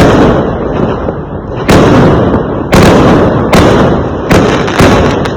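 Fireworks going off: about six loud bangs in quick succession, roughly one a second, each trailing off in a rumbling echo.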